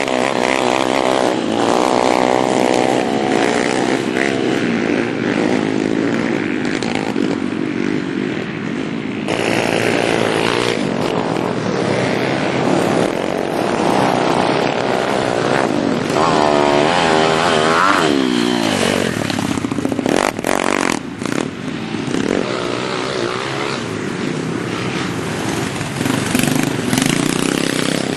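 Small pit bike engine running hard, its pitch rising and falling repeatedly as the throttle is opened and closed. A few sharp knocks come about twenty seconds in.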